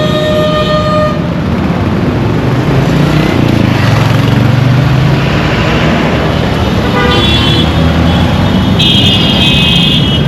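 Indian street traffic with a vehicle engine running and horns honking: one horn sounds in the first second, another briefly about seven seconds in, and a higher-pitched horn is held for over a second near the end.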